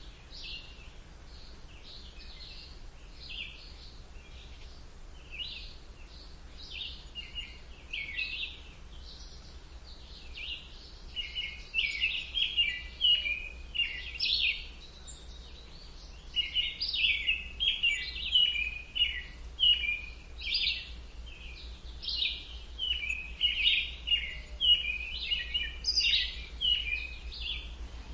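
Birds chirping and singing in short, rapid notes, scattered at first and becoming a busier, louder chorus from about a third of the way in.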